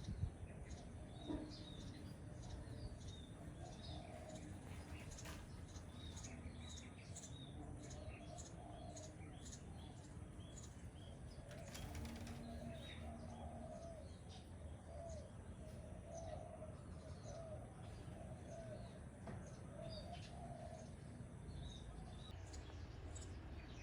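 Sparrow nestling chirping in its nest, with short repeated high chirps and bouts of wing fluttering, like a chick practising flapping before fledging.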